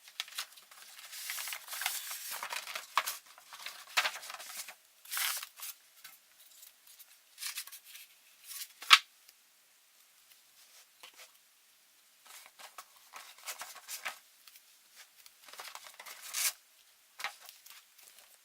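Packaging being handled while a diecast model aircraft is unboxed: irregular rustling, crinkling and tearing with scattered sharp clicks. The loudest is a single sharp click about nine seconds in.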